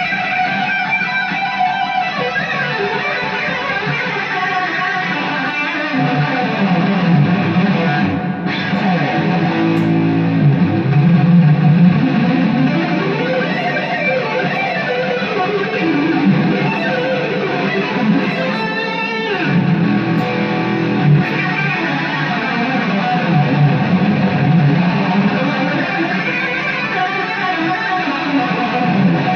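Aria Pro II PE-TR-1G electric guitar being played in a sound test: a steady run of picked notes and chords ringing into one another, with a quick falling glide about two-thirds of the way through.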